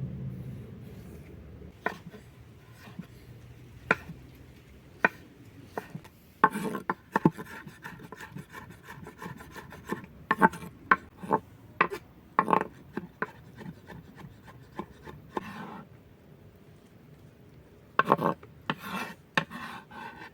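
Hand food preparation on a wooden surface: irregular sharp knocks and clusters of short rasping scrapes.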